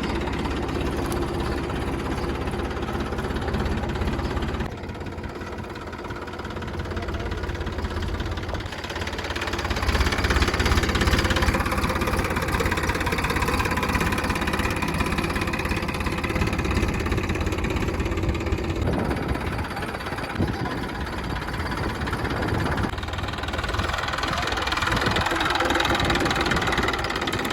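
Mini tractor engine running steadily. Its sound changes abruptly several times and is loudest from about ten seconds in.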